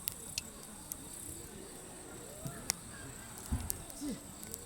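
Campfire firewood crackling, with a handful of sharp, irregular pops, over a steady high chirring of crickets. Faint voices murmur in the distance.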